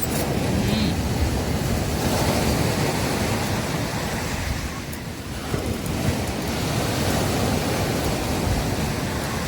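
Sea waves washing onto a beach: a steady rush of surf that swells, eases off about halfway through, and builds again.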